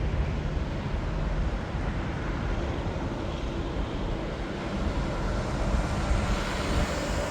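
Jet airliner engine noise at an airport: a steady rumble with a faint whine, growing brighter toward the end.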